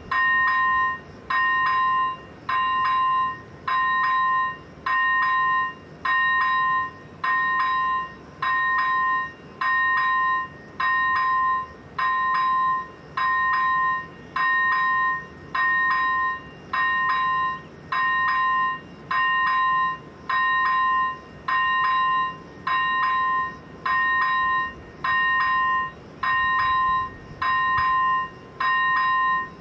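Electronic warning bell of a Czech AŽD 97 level crossing, striking about once a second, each stroke a sharp ding ringing on two clear tones: the crossing is closed for an approaching train.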